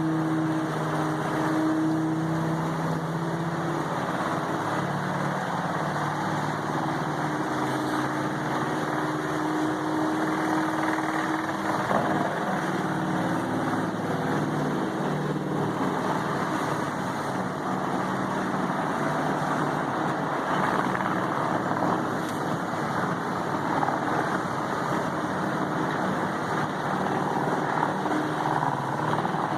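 Vermeer HG6800TX horizontal wood grinder running steadily, a constant engine note over the rumble of the grinding.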